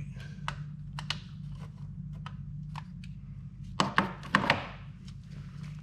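Clicks and knocks from a work light being handled and repositioned, with a burst of louder clatter about four seconds in, over a steady low hum.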